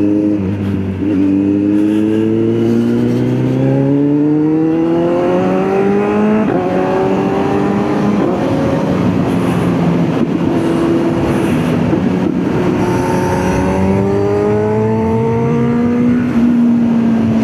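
Motorcycle engine pulling through the gears. Its pitch climbs slowly, with short drops at gear changes about a second in and again around six and eight seconds. It then runs at a fairly steady pitch near the end.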